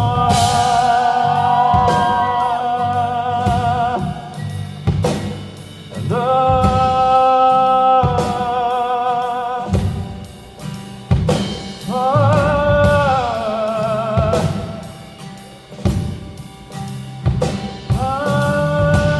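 Live pop-rock band music: a male singer holds about four long wordless notes with vibrato over a drum kit keeping a steady beat, with bass and guitar.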